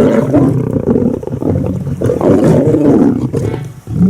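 Lions growling at a kill: a loud, rough, continuous growling that dips briefly near the end.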